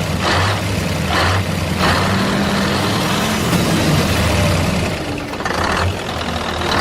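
Truck engine running at idle, a steady low rumble, with several short bursts of hiss over it.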